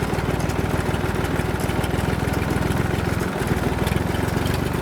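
Farm machine's engine running steadily nearby, with a fast, even pulse.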